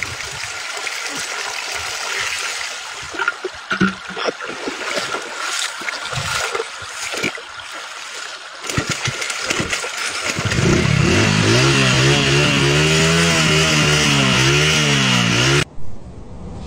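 Water from a bucket splashing and sloshing over a motorcycle. About ten seconds in, the motorcycle's engine starts and runs with a rising, wavering pitch, then cuts off suddenly near the end.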